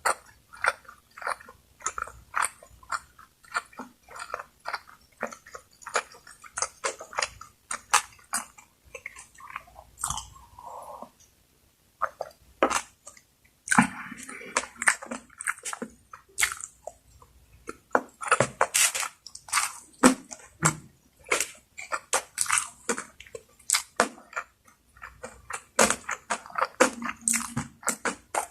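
Close-miked eating: a person chewing and biting food in quick, irregular mouth clicks, with a short pause about eleven seconds in.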